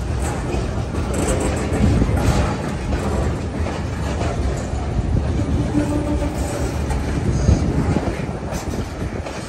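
Freight train of covered hopper cars rolling past close by: a steady rumble of steel wheels on rail, with clicking as the wheels cross rail joints.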